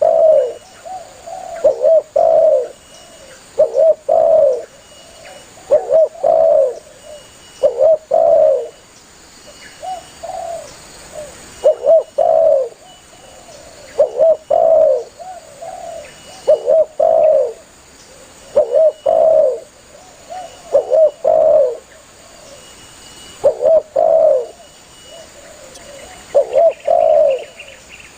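Spotted dove (tekukur) cooing: the same phrase of two or three short notes running into a longer one, repeated about every two seconds.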